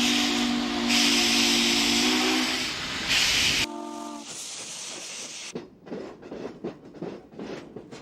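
Steam locomotive whistle blowing a long chord over loud hissing steam, then a short toot about three and a half seconds in. After that the sound drops to quieter rhythmic chuffing, about three beats a second.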